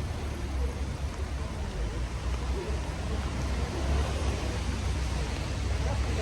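Steady rain falling on a street, an even hiss over a continuous low rumble.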